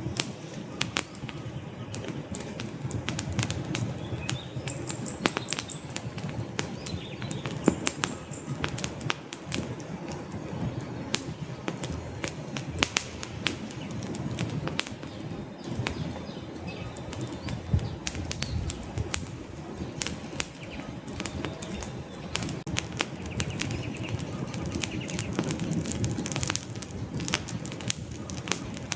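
Wood fire burning in a fireplace: a steady low rumble of flames with frequent, irregularly spaced crackles and pops from the logs.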